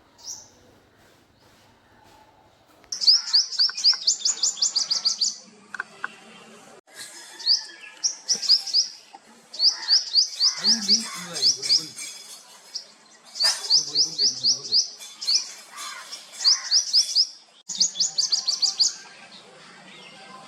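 A small songbird singing fast runs of high, quickly rising chirps, a dozen or so notes per run, repeated again and again with short gaps, starting about three seconds in.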